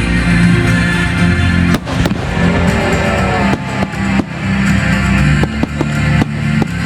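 Fireworks finale: shells bursting in a rapid run of sharp bangs, the heaviest about two seconds in, over loud music.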